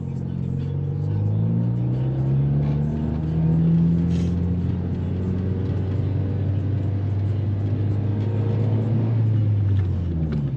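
Honda Civic's stock four-cylinder engine running under acceleration, its pitch rising over the first few seconds, then holding steady before dropping away near the end. The car's clutch is worn out, which the driver says is definitely out.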